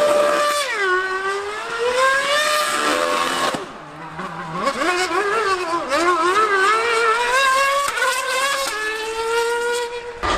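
High-revving racing engine running hard, its pitch falling and climbing again and again as it brakes, shifts and accelerates. It drops off briefly about four seconds in, then climbs in steps, and cuts off suddenly near the end.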